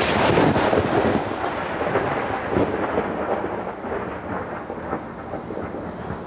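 Intense thunderclap from a close lightning strike: it breaks suddenly with crackling, then rumbles and slowly fades over several seconds.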